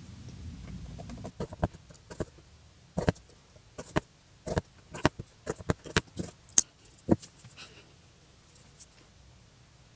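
Hand-embroidery needle piercing taut fabric, with thread drawn through: a run of irregular sharp clicks and taps from about a second and a half in until about seven seconds, after a low hum at the start.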